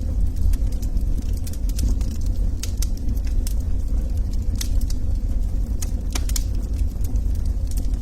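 Log fire crackling: frequent sharp pops and snaps of burning wood, irregularly spaced, over a steady low rumble.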